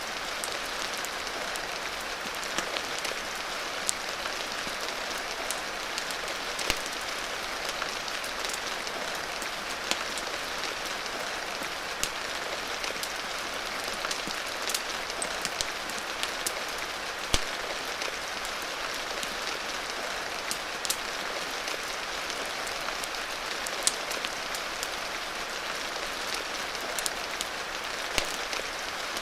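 Steady rain hiss mixed with the crackle of a fireplace fire: irregular sharp pops every second or two, the loudest a little past halfway.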